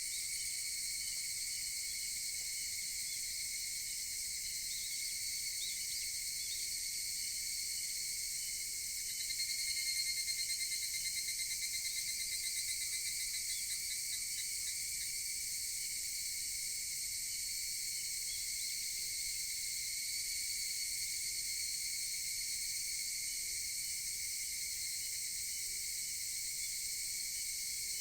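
Higurashi evening cicadas calling in a steady high chorus. About nine seconds in, a nearer cicada starts a rapid pulsing call that fades out over the next five or six seconds.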